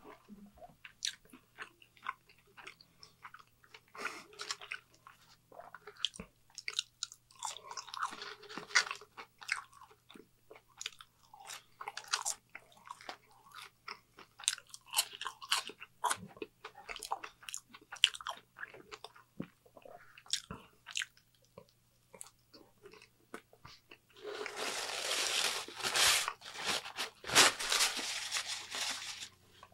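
Close-miked chewing and crunching of fast food, full of sharp crunches and wet mouth clicks. Near the end a paper burger wrapper crinkles loudly for a few seconds as it is unwrapped.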